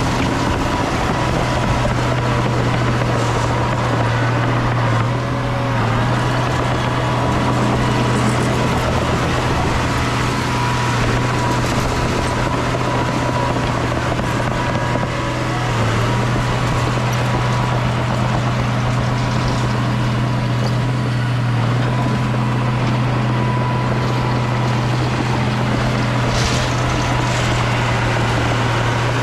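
Heavy diesel engine of earthmoving machinery running steadily at a constant pitch, a loud, unbroken low drone.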